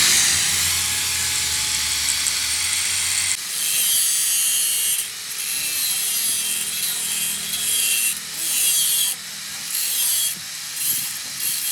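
A power tool grinding or cutting steel: a loud, harsh hiss that is steady with a low hum for the first three seconds or so. It then goes on in repeated passes with short breaks about five, eight, nine and ten seconds in.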